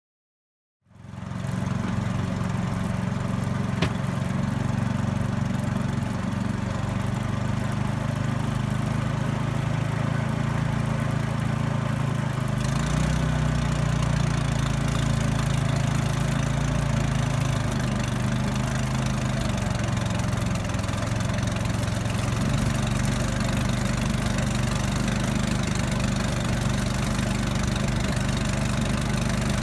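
Small engine of a motorized river raft running steadily with a low, even drone; its note and rumble shift about thirteen seconds in.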